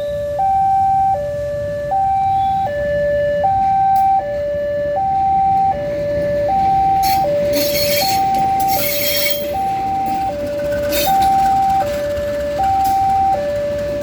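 Railway level-crossing warning alarm sounding its two-tone electronic signal, alternating a high and a low note about every three-quarters of a second, over a low steady rumble. A few short hisses come around the middle.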